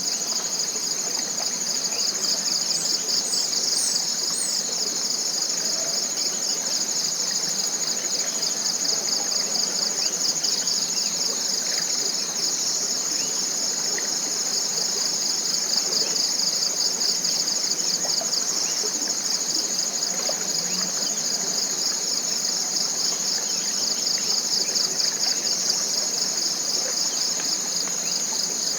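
Tropical forest insect chorus: a steady, high-pitched shrill with a fast pulsing texture that holds constant throughout. A few faint, short rising chirps sound briefly about three to four seconds in.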